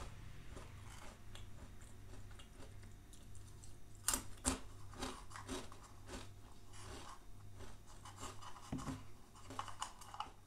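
Close-up chewing of crunchy Nutella & Go breadsticks, with the sharpest crunches about four seconds in and more scattered crunches and small clicks after, along with the plastic cup being handled.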